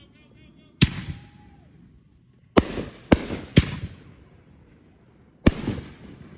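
Fireworks bursting: five sharp bangs, one about a second in, a quick run of three in the middle and one near the end, each trailing off in a short rumbling echo.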